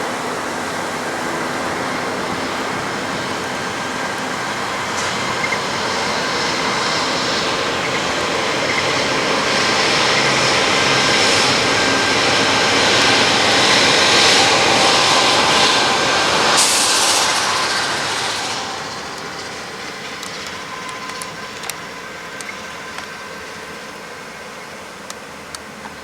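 A train passing by. It grows louder to its loudest about two-thirds of the way through, with a brief high hiss near the peak, then drops away quickly and fades.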